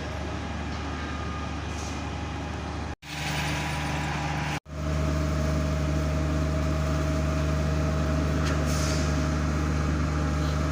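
Diesel engine of a truck-mounted concrete pump running steadily at high revs. It cuts out abruptly twice, about 3 and 4.5 seconds in, then carries on.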